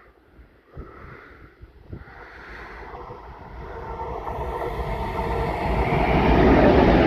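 Class 241 diesel locomotive running light without wagons, approaching and growing steadily louder, with a steady engine drone over rail rumble.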